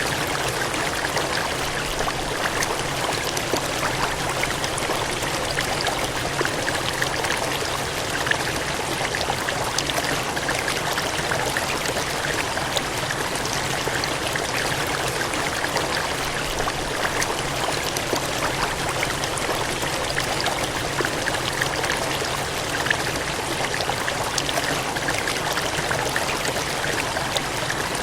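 Gushing, cascading water: a steady, even rush with small splashes flickering through it.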